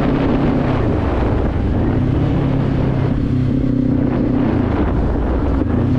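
Kawasaki Z400's parallel-twin engine running under way, its pitch mostly steady with slight dips about a second and a half in and near the end, with wind buffeting the helmet microphone.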